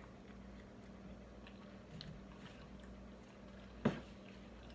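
Quiet room with a steady low hum and faint mouth sounds of someone chewing, broken by one sharp click about four seconds in.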